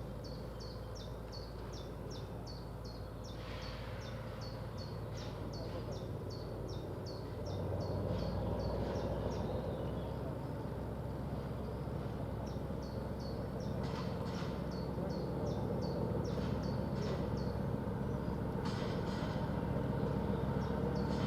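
A train's low engine rumble, growing louder from about seven seconds in as it draws closer, while a bird chirps rapidly and repeatedly in short falling notes.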